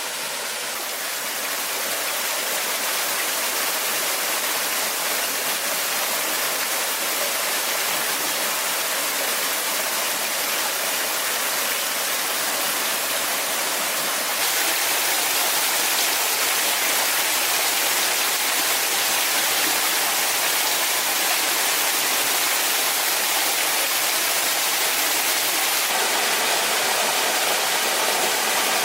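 Steady rush of falling water from a waterfall, an even hiss with no pauses. Its level and tone shift abruptly a couple of times, about a second in and about halfway through.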